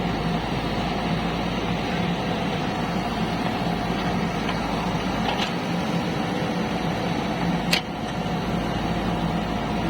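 Heavy diesel engine of a farm tractor or loader running steadily at a constant speed, with a short sharp click near the end.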